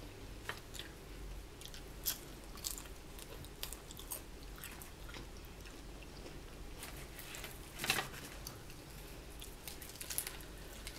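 A person chewing and biting into crispy fried chicken wings, with scattered crunches; the loudest crunch comes about eight seconds in.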